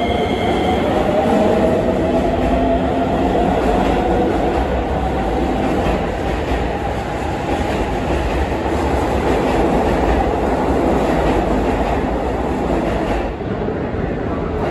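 Keisei electric commuter train running into an underground station platform and slowing, a steady rumble of wheels on rails with a motor whine that falls in pitch over the first few seconds, echoing off the enclosed platform.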